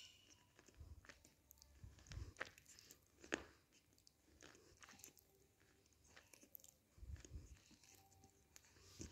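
Faint close-up chewing of roasted clay, with irregular small crunches and one sharper crunch about a third of the way in.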